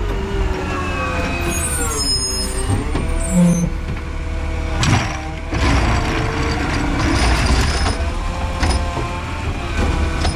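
Garbage truck engine running, its pitch sliding down and then back up, with an air-brake hiss about two seconds in and a sharp clank about five seconds in.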